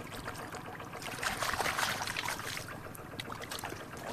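Water splashing and sloshing, with a louder stretch of splashing from just over a second in to about two and a half seconds.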